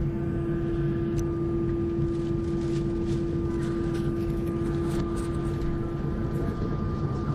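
Steady cabin hum inside an Airbus A321 airliner, heard from a window seat, with a constant droning tone over it and a few faint clicks.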